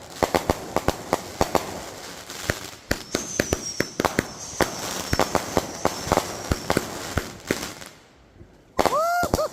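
Fireworks going off: a rapid, irregular string of sharp crackling pops, with a thin high whistle running through the middle. After a short lull near the end, a warbling pitched sound starts, its pitch rising and falling several times a second.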